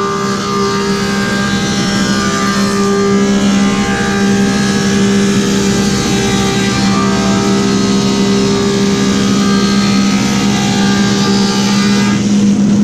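Woodmaster thickness planer running steadily with a loud hum, its cutterhead planing a white oak board. About twelve seconds in, the higher cutting tones fade, leaving the machine running.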